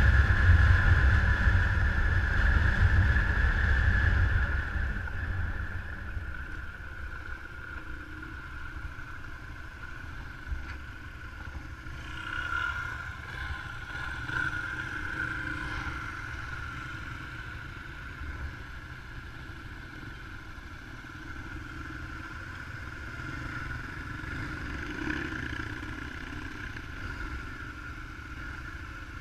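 An engine running steadily, loud for the first few seconds, then dropping to a lower, steady level.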